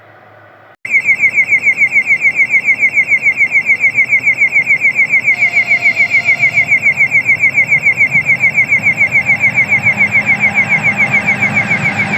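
Railway level-crossing warning signal sounding: a loud electronic beep repeated rapidly, several times a second, each pulse falling slightly in pitch. A low rumble builds under it near the end.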